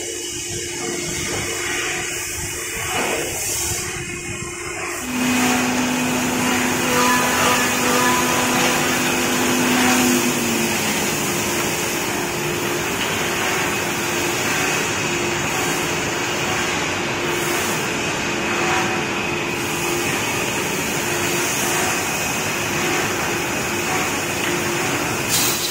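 SM-2400D2R1 horizontal and vertical woodworking boring machine running: a steady motor and spindle noise with a constant hum. It gets louder about five seconds in, when a second steady tone joins for about five seconds and then stops.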